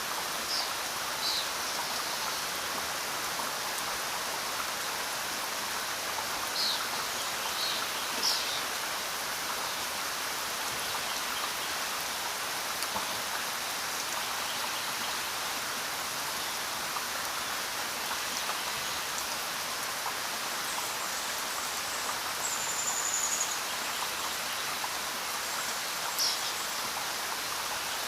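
Steady rain falling on a forest road and foliage, an even hiss of many drops. A few short high-pitched chirps come through it.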